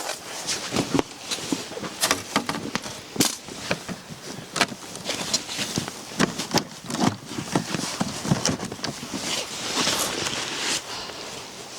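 Snow crunching and scraping in irregular strokes, as snow is dug and packed into boxes to form blocks for a wall.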